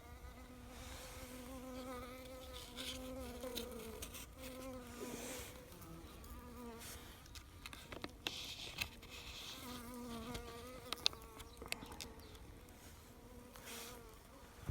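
Honeybees buzzing in flight: a low, wavering hum that comes and goes as single bees fly out of the wintering hive on a cleansing flight. A sharp click sounds about eleven seconds in.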